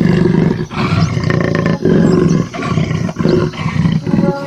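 A big cat roaring and growling: a run of rough, low calls, each about half a second to a second long, with short breaks between them.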